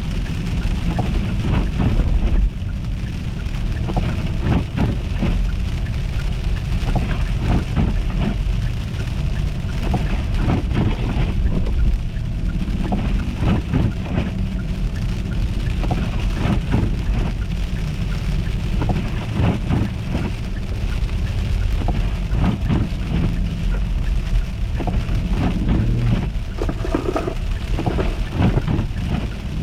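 Car driving on an icy, slushy road: a steady low rumble of road noise, with constant crackling as the tyres break through ice and slush.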